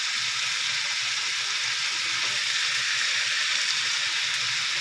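Wild pig meat with tomatoes and spring onions frying in a metal wok, sizzling steadily; the meat is nearly cooked.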